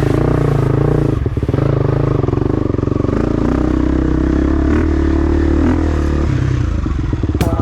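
Off-road trail motorcycle engine running, its pitch shifting a little with the throttle.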